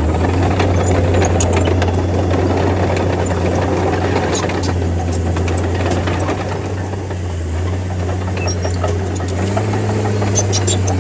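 Bulldozer's diesel engine running steadily under load, with scattered metallic clanks and rattles over it; the engine note drops briefly past the middle and picks up again near the end.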